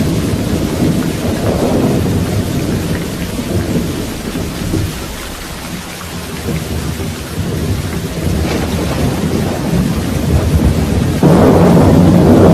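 Steady rain with rolling thunder. The low rumble fades about halfway through and builds again, and a sudden, louder peal of thunder breaks in about eleven seconds in.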